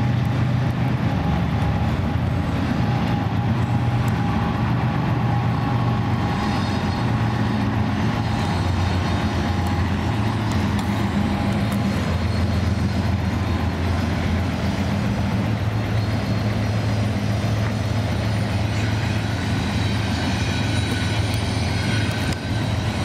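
BNSF intermodal freight train passing: diesel locomotive engines running with a steady low drone over the rumble of the train on the rails. A few faint high squeals come near the end.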